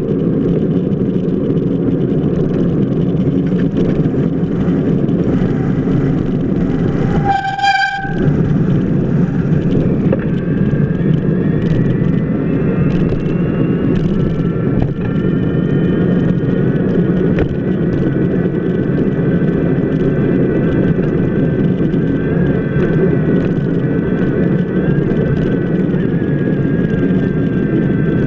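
Steady low rumble of a bicycle wheel rolling on wet pavement, picked up by a camera mounted on the wheel hub. About seven seconds in comes a short horn-like toot, and from about ten seconds on faint thin tones slowly rise in pitch.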